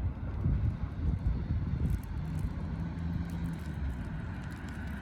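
Low rumble of road traffic, with a steady engine hum for a second or so near the middle.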